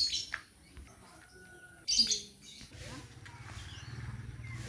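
Birds chirping and calling, with two louder calls about two seconds apart, then a low steady hum coming in over the second half.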